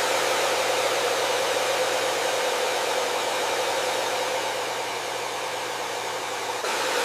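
Hair dryer running steadily: an even rush of blown air with a low motor hum beneath it. The level steps up slightly near the end.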